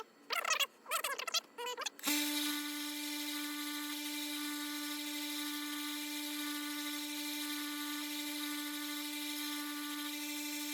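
Harbor Freight 1x30 belt sander's electric motor switched on about two seconds in, then running with a steady hum at one constant pitch.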